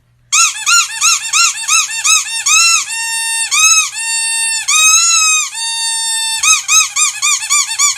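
Squeaky toy squeezed over and over in a rhythm: quick short squeaks, then longer held squeaks in the middle, then quick ones again near the end.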